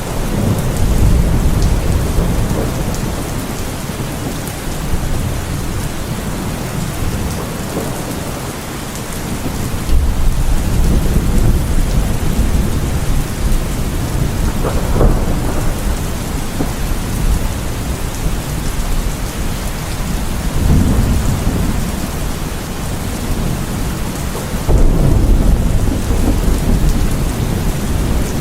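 Heavy rain falling steadily through a thunderstorm, with rolling thunder swelling up several times, strongest about ten seconds in and near the end.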